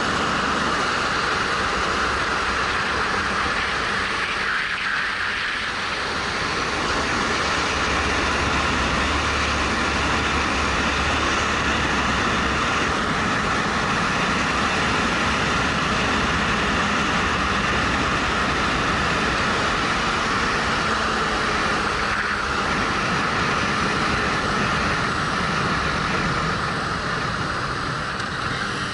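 Steady wind rush over a helmet-mounted action camera's microphone while riding, with the 2013 Suzuki GW250's parallel-twin engine running underneath.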